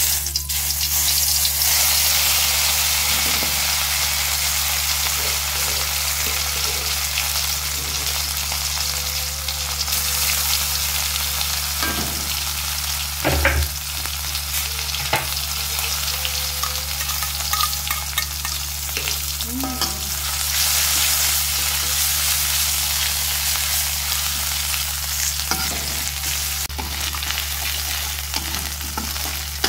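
Chilies and belacan (shrimp paste) sizzling in hot oil in a wok, fried for sambal belacan, with a spatula scraping and knocking against the pan now and then; one louder knock comes about halfway.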